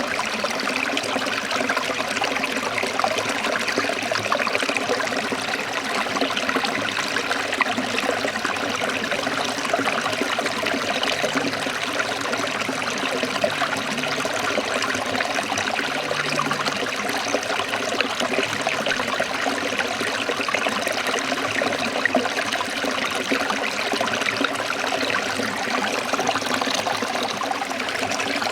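Shallow forest stream splashing and trickling over rocks in a steady, unbroken flow.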